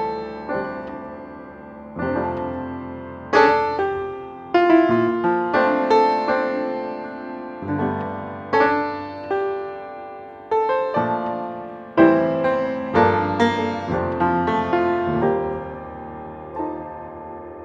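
Background music: solo piano playing slow chords that ring and fade.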